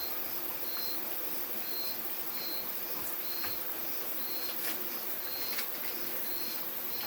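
A repeated short high chirp at one steady pitch, about one every three-quarters of a second, over a constant high-pitched hiss of forest insects, with a few faint clicks around the middle.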